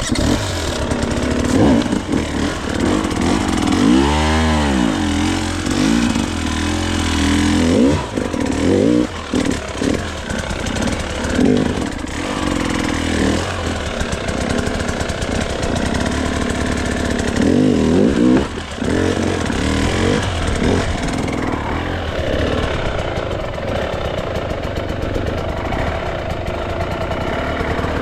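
Gas Gas dirt bike engine revving up and down in repeated bursts, with a sharp rise and fall in pitch about four seconds in and steadier running over the last few seconds.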